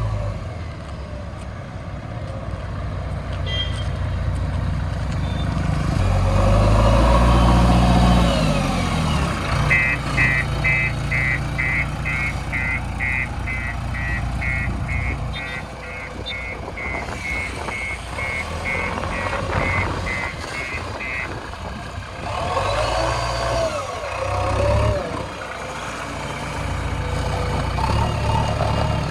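JCB 3DX backhoe loader's diesel engine running, rising in revs for a couple of seconds, with its reversing alarm beeping steadily a couple of times a second for about eleven seconds while the machine backs up. The beeping starts again near the end.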